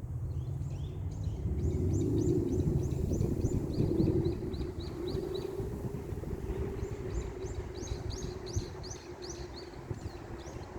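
A bird singing two runs of quick, repeated chirps, over a steady low hum and rumble.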